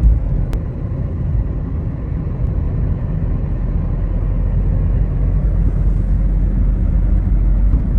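Steady low rumble of a car driving, heard from inside the cabin, with a single brief click about half a second in.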